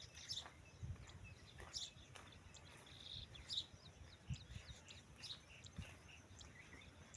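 Faint bird chirps, short high calls every second or so, over a low outdoor background with a few soft low thumps.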